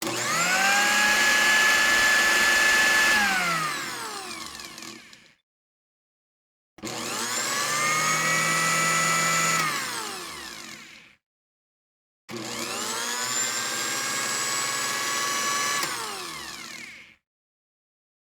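A small electric motor whining up to speed, running steadily for a few seconds, then winding down with falling pitch, three separate times with silence between.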